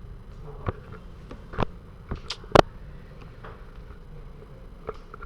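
Several light taps and clicks of playing cards being put down and handled on a table, the loudest about two and a half seconds in, over faint room noise.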